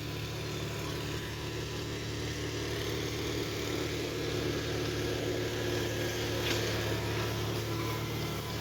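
Garden tractor pulling engine running steadily, getting a little louder about six seconds in.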